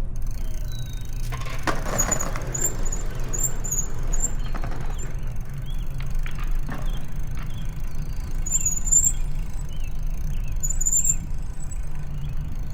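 Steady low rumble of a bicycle ride in city streets, with short high-pitched squeaks or chirps several times and a brief swell of noise about two seconds in.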